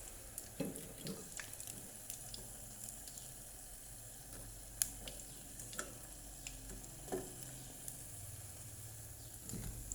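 Battered shrimp deep-frying in hot oil: a steady sizzle with scattered sharp pops and crackles, one louder pop about five seconds in.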